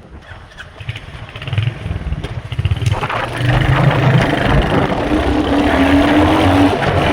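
Royal Enfield Hunter 350's single-cylinder engine thumping as the motorcycle pulls away and picks up speed, growing louder over the first few seconds. From about three seconds in, a steady rush of wind and road noise rises over the engine as the bike cruises.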